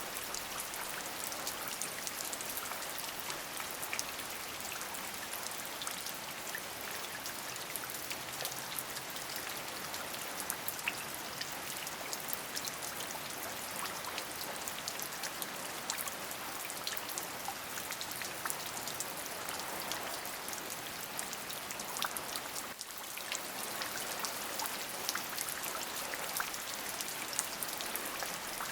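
Steady rain: an even hiss full of many small, separate drop ticks, with a brief dip in level about 23 seconds in.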